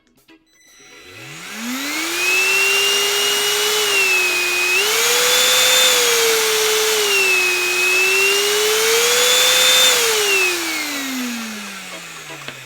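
Homemade model turbofan driven by a battery-powered DC electric motor spinning up to a high whine with rushing air. Its pitch rises and falls a few times as the speed changes, then winds steadily down near the end as the fan slows.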